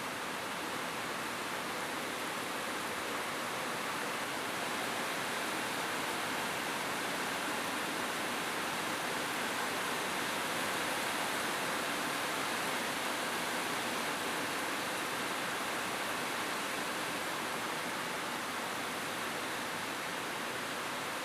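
Steady rain falling on a roof, an even hiss with no single drops standing out and no thunder.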